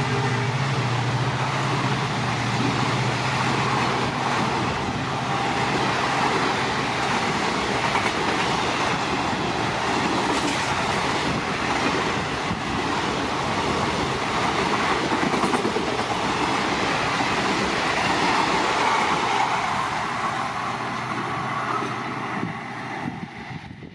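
Diesel-hauled passenger train passing at speed: the locomotive's engine note fades just at the start, then the coaches' wheels run past on the rails in a long steady rush that dies away over the last couple of seconds as the train clears.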